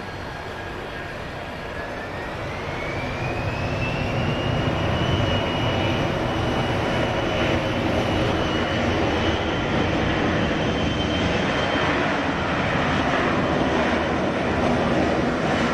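Jet airliner engines running loudly, their turbine whine rising in pitch about two seconds in and then holding steady as the noise grows louder.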